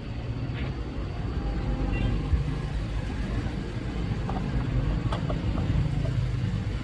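Motorcycle engine running steadily with a low rumble, with a few light clicks about five seconds in.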